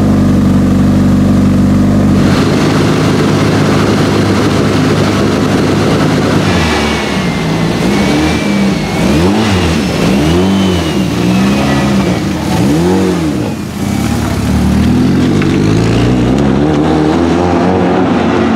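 Lancia Delta HF Integrale EVO Proto's 500 hp turbocharged 2.0-litre four-cylinder running steadily, then revved in a string of quick blips, each rising and falling, before it runs steadily again near the end.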